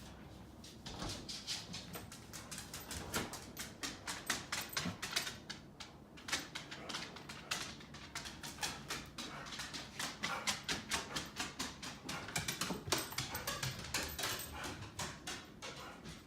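Pit bull dog making quick, short sounds in irregular runs, several a second.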